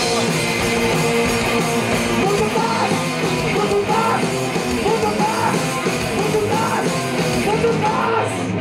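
Rock band playing a loud song with a singer. From a few seconds in, the vocal breaks into short repeated phrases about once a second.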